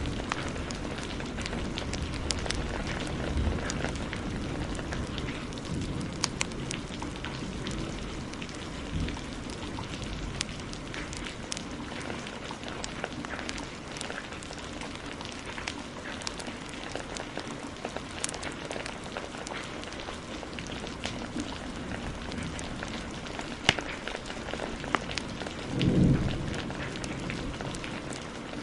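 Steady heavy rain with scattered sharp crackles, like those of a log fire, running through it. A low thunder rumble fades out at the start, and a brief deep rumble comes about 26 seconds in.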